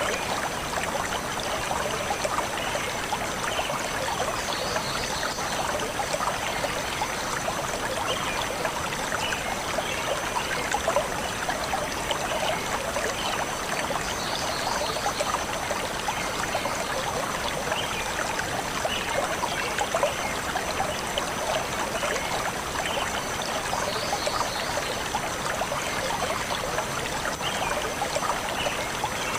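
Forest stream flowing steadily, with faint bird chirps now and then.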